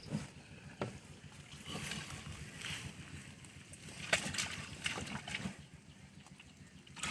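Hands working in shallow, muddy floodwater: irregular splashes and sloshes, the strongest about four seconds in.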